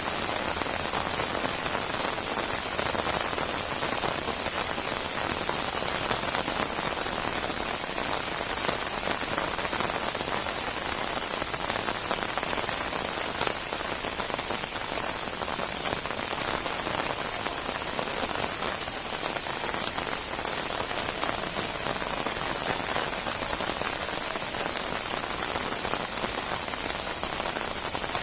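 Steady, heavy rain falling and pattering on surfaces, a dense even hiss of raindrops.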